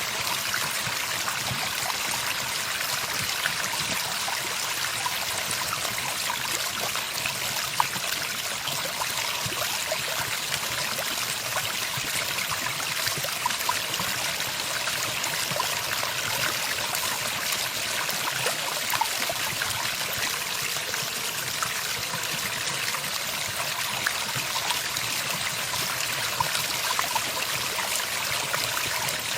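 Running water, a steady, even trickling stream with no break.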